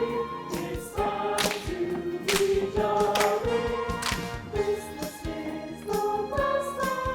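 High school choir singing held notes together, with crisp sung consonants here and there.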